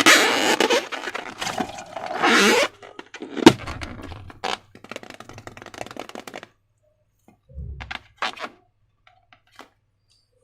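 Hands working slime and plastic balloons: dense crackling and scraping for the first few seconds, then one sharp crack, the loudest sound, about three and a half seconds in. Scattered clicks follow, with a soft low thump later on.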